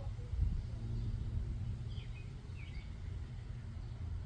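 Outdoor ambience: a constant low hum and rumble of wind and distant vehicles, with a few short bird chirps about two seconds in.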